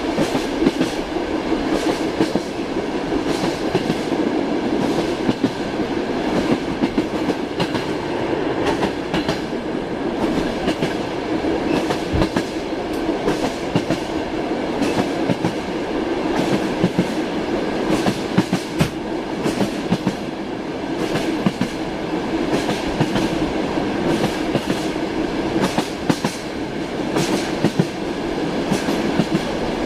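Train wheels knocking over rail joints with a continuous rumble, heard from inside a moving railway carriage, with frequent irregular clicks and rattles.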